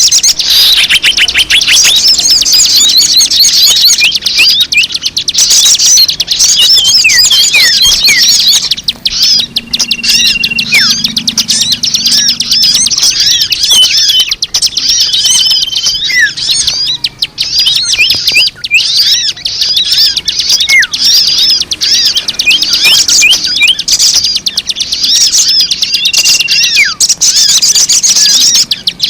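Recorded chorus of many small birds chirping and trilling in a dense, rapid, unbroken stream of high notes, with a few short level whistles now and then; a bird-lure call played loud to draw in wild birds.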